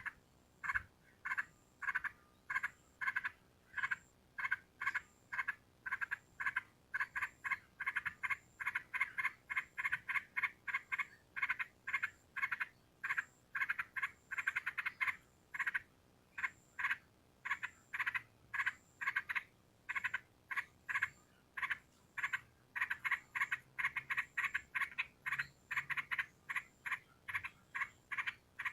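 Quiet series of short, evenly repeated animal calls, about three a second, with a few brief pauses.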